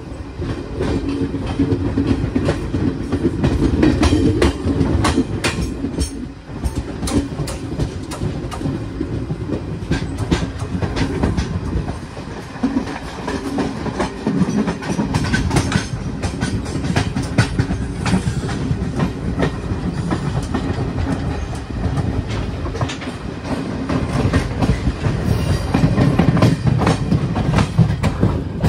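Moving passenger train: a steady low rumble of the running train with the clickety-clack of steel wheels over rail joints repeating throughout.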